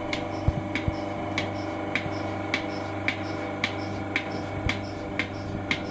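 Milking machine running: the steady hum of its vacuum pump, with the pulsator clicking evenly about twice a second and a short airy hiss with each pulse.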